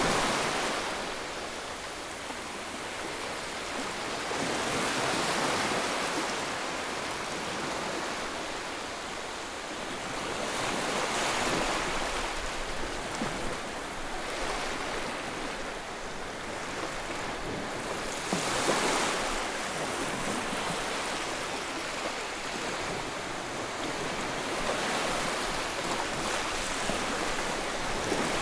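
Ocean surf: waves breaking and washing in, the hiss swelling and ebbing every five to seven seconds.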